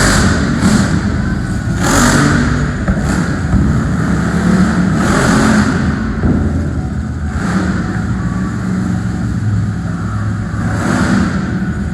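Monster truck engine running loud and revving hard, in repeated surges every two to three seconds.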